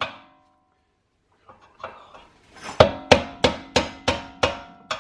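Hammer blows on a punch driving a bolt out of a rear hub carrier, each blow ringing out metallically, about three a second. After a strike at the start there is a pause with a few light knocks, then a steady run of blows from near the middle.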